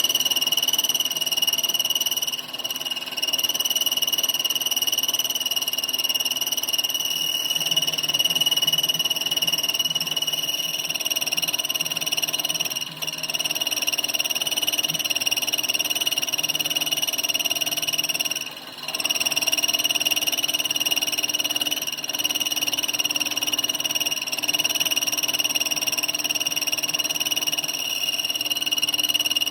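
A workshop machine running with a steady high-pitched whine over a low buzz, dipping briefly a few times.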